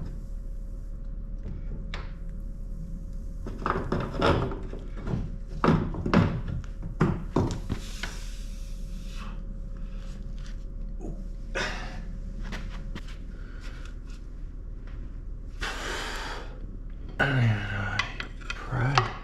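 Metal hand tools and suspension parts clinking and knocking as a car's front suspension is taken apart: scattered single knocks and clinks, with a short noisy burst about three-quarters of the way through.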